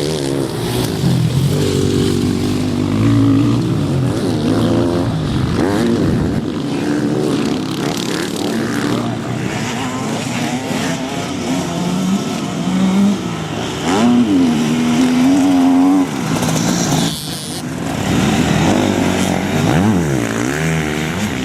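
Several off-road motocross motorcycle engines revving hard, pitch rising and falling over and over as the bikes accelerate and back off.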